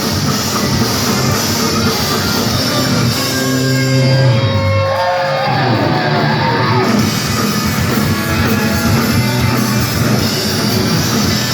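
Punk rock band playing live in a club: distorted electric guitars, bass and drums, with singing. About four seconds in the cymbals drop out for a few seconds and held notes with a few pitch bends ring out, then the full band comes back in.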